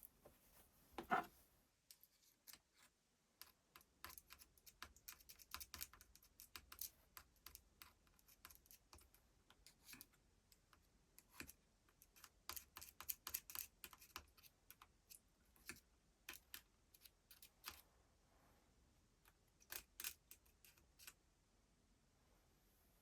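Faint, irregular clicks and taps of small hard parts and hand tools being handled, thinning out near the end.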